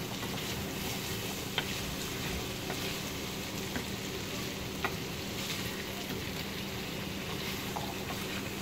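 Chicken keema and chickpeas frying in a non-stick pan while being stirred with a wooden spoon. There is a steady sizzle, and the spoon knocks lightly against the pan a few times. The masala is being fried down before water is added.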